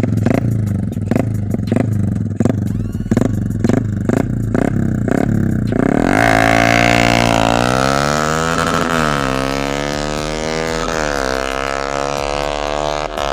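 Small single-cylinder motorcycle engines, a 200cc Yamaha MX and a stock Honda Sonic, run flat out in a drag race. About six seconds in the engines come up loud, their pitch climbing and dropping again and again as they pull through the gears. Before that there is a steady hum with short regular knocks about twice a second.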